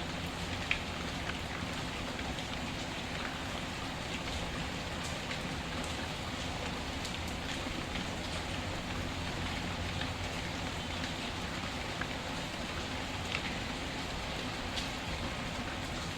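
Steady rain falling, with scattered sharp crackles and pops from a wood fire; the loudest pop comes just under a second in.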